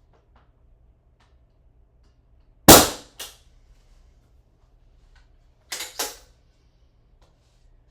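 Ramset powder-actuated nail gun firing: one very loud gunshot-like bang with a shorter crack just after it, then a few quieter sharp knocks about three seconds later.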